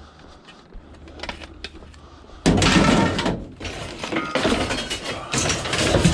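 Scrap metal pieces clanking and clattering as they are handled and loaded. A few light knocks, then a sudden loud clatter about two and a half seconds in, with more clattering after.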